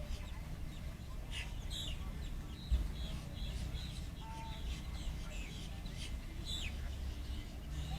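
Birds calling in short chirps and squawks, some sweeping downward, over a steady low rumble, with one brief low thump a little under three seconds in.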